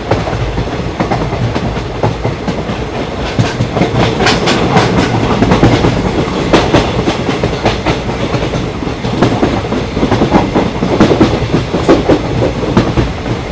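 An Indian Railways train running on the track: a steady rumble with repeated sharp clacks as the wheels pass over rail joints.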